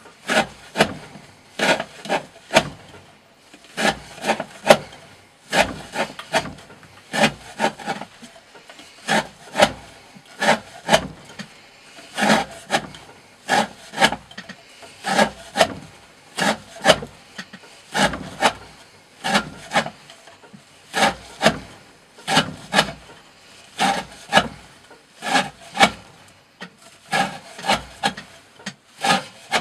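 D2-steel Green Thorn Hati knife with a 40° V edge slicing through 20 mm rope, stroke after stroke, about two cuts a second with short gaps between runs.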